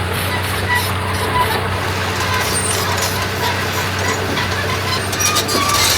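Heavy diesel earthmoving machinery running steadily with a constant low drone, with a few short high squeaks and a brief burst of hiss near the end.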